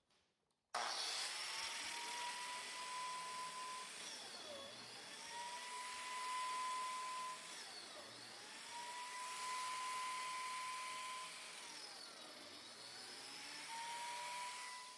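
Electric power tool running with a high motor whine, its pitch dipping sharply and recovering about every three and a half seconds.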